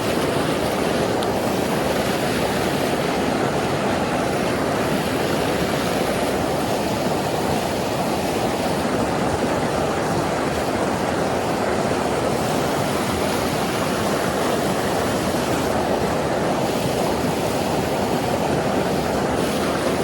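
Creek water running, a steady rushing.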